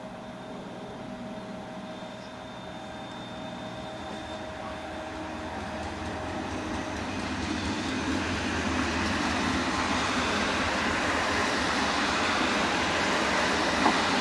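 ICE high-speed electric train approaching and running past on the overhead-wired line: a rush of wheels on rail that grows steadily louder as it nears. A short sharp click comes near the end.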